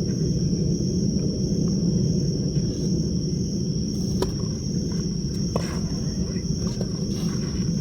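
Outdoor tennis court ambience: a steady high insect drone over low rumbling background noise. A few sharp knocks of tennis balls being struck come from about four seconds in.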